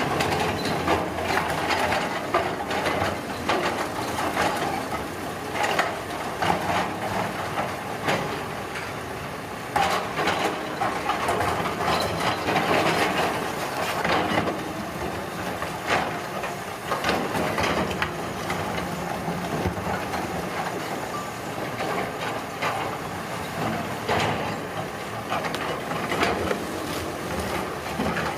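Heavy road construction machinery running, with frequent knocks and clatter throughout.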